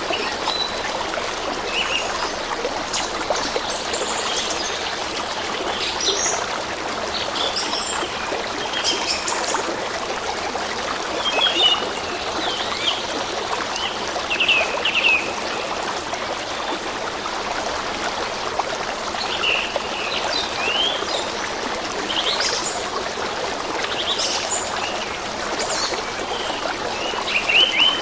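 Small stream trickling and running steadily, with songbirds chirping in short calls on and off throughout.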